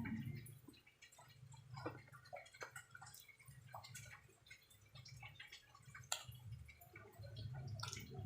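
Faint, scattered clicks and soft crunches of slate pencil being chewed, the pieces wet, over a low steady hum.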